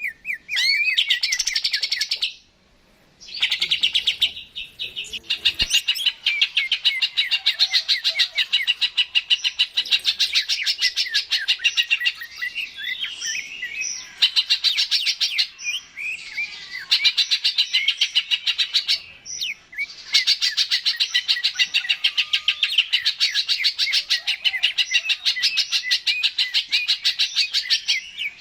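Greater green leafbird (cucak ijo) singing vigorously in long runs of rapid, fast-repeated chirping notes. There is a short break about two and a half seconds in, and a few brief pauses later.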